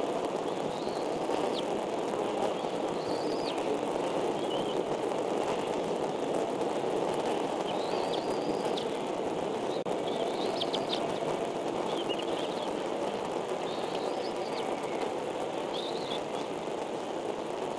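Steady rushing noise with short, high bird chirps about every second or two.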